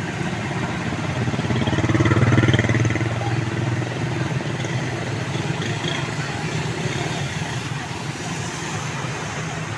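A motor vehicle engine running steadily amid street noise, growing louder for a moment about two seconds in.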